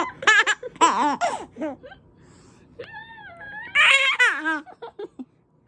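A 5–6-month-old baby laughing: a run of quick laughs in the first two seconds, then two more laughs around three and four seconds in.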